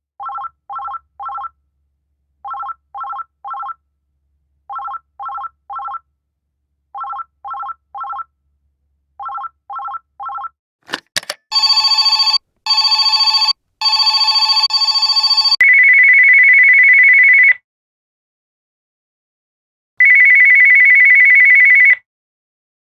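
Electronic telephone ringers in sequence. First a trill in groups of three short beeps about every two seconds. After a few clicks about eleven seconds in comes a louder, harsher ring of four pulses, then a steady high ring about two seconds long that repeats after a pause.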